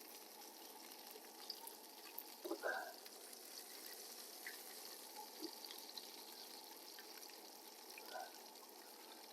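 Faint, steady sizzle of food frying in a pan, crisping at the edges.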